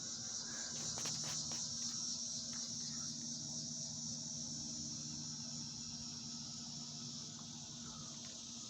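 Outdoor insect chorus, a steady high-pitched buzzing that fades slightly toward the end, with a few faint clicks about a second in.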